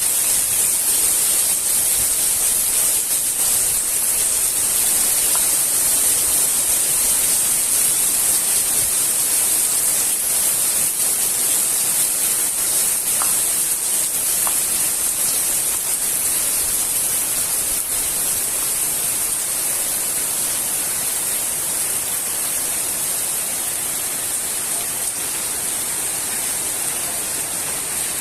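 Heavy rain falling steadily, a dense even hiss with a few faint drips, easing off slightly near the end.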